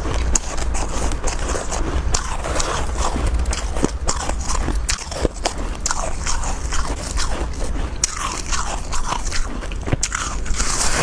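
Close-up crunching of freezer frost chunks being bitten and chewed, dense irregular crunches and crackles, over a steady low hum.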